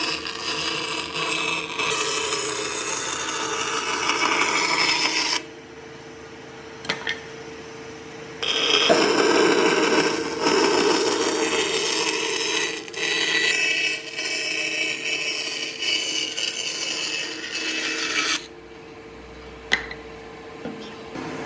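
A power tool working wood: a steady motor hum under rough cutting noise, which drops away twice for a few seconds as the tool comes off the work.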